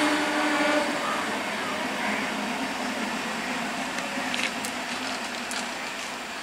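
Electric multiple unit local train running on the rails, its rolling noise slowly fading, with a few sharp clicks in the second half.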